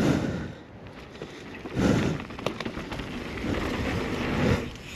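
Mountain bike rolling down a dirt trail: tyres on dirt and loose ground with clicks and rattles from the bike, under a rushing noise that swells about two seconds in and again near the end.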